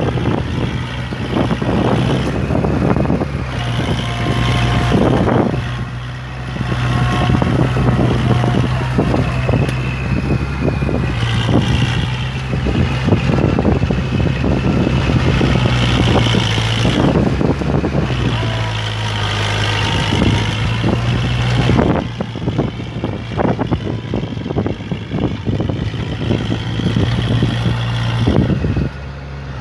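Kubota MU4501 tractor's diesel engine running steadily under load while puddling a wet, muddy field. Irregular rough noise runs over the engine note throughout.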